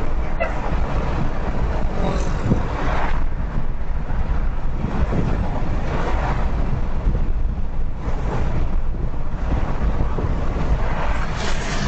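Steady road rumble and wind noise from a car driving on a highway, picked up by its dashcam, with a rushing whoosh swelling up four times.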